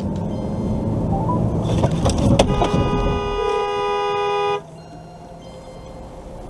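Vehicle and road noise, then a car horn held steadily for about two seconds, cutting off abruptly.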